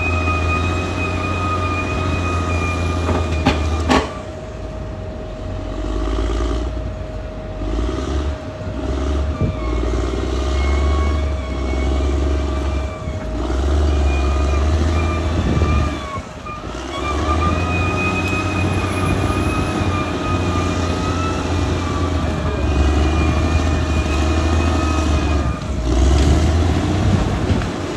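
Caterpillar D6R XL bulldozer at work, its diesel engine running under changing load with a steady low drone that eases off briefly twice. A high whine wavers over it on and off.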